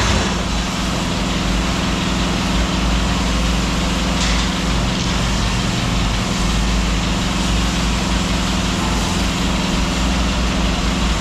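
A large engine running steadily at idle: a constant low drone with a strong hum, unchanging throughout.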